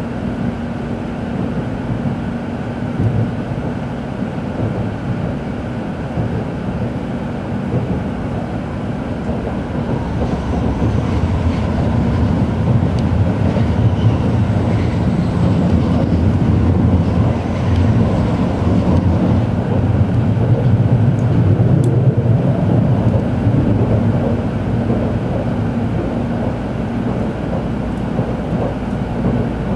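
Running noise heard inside a Tokaido Shinkansen car: a steady low rumble of the train on the rails that grows louder about ten seconds in, with a faint steady hum under it.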